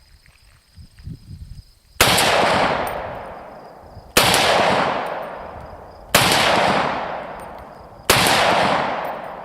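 Four rifle shots from a Ruger Mini-14 Ranch Rifle in 6.8 SPC, fired one at a time about two seconds apart, each followed by a long fading echo. All four strike the steel gong target.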